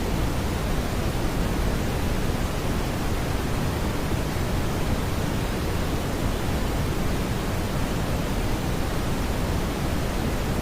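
Steady synthetic brown noise: a smooth, even hiss weighted toward the low end, with no tones or changes.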